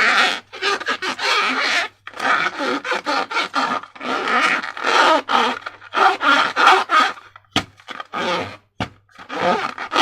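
Slime being squished and worked by hand with transparent balloons: a run of irregular wet squelching and crackling noises, with a few sharp clicks in the second half.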